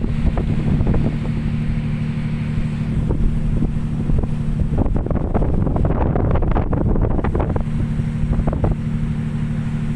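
Strong gusting wind buffeting the microphone in a storm, with driving rain rattling and crackling, over a steady low hum that fades for a couple of seconds midway.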